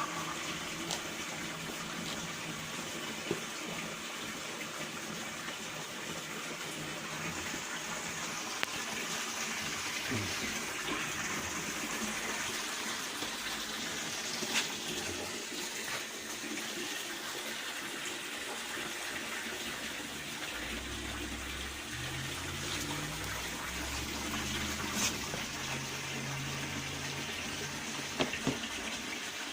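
Water rushing steadily into the tub of a Whirlpool top-loading washing machine as it fills, with the tub now holding its water rather than draining out. A low hum joins about two-thirds of the way through.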